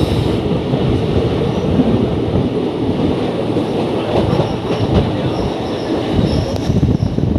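Matsyagandha Express passenger train running on the rails: a steady rumble and clatter of the coach's wheels on the track, with a faint high squeal from the wheels now and then.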